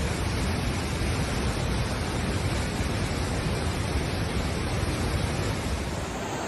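Steady rushing roar of surging water with a heavy low rumble, easing slightly near the end.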